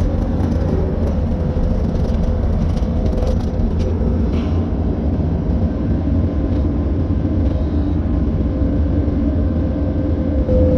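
Skid steer engine running steadily with a continuous low rumble and a faint steady whine, as it works a bushhog.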